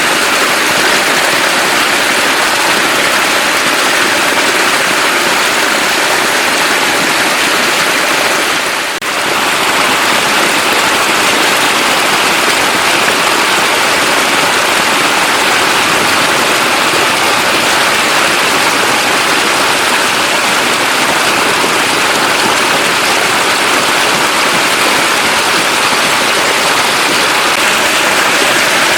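Steady, loud rushing water noise with no distinct drops or splashes, dipping briefly about nine seconds in.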